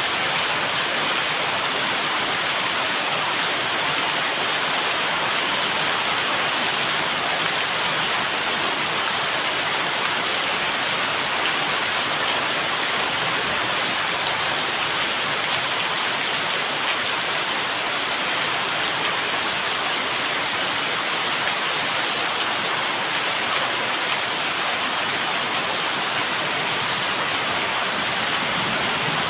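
Steady heavy rain falling, an even unbroken hiss of water.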